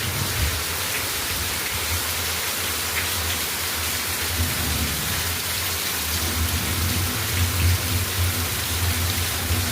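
Heavy rain pouring steadily, with a low rumble underneath that grows stronger near the end.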